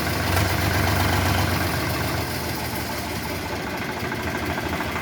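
Swaraj tractor's diesel engine running steadily, its low drone easing off about two seconds in.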